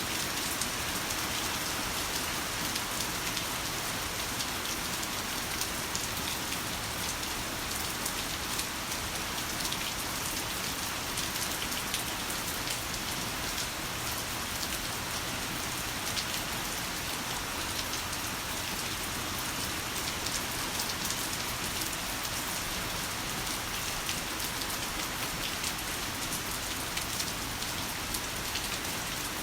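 Heavy rain falling steadily: an even hiss dotted with many sharp ticks of individual drops.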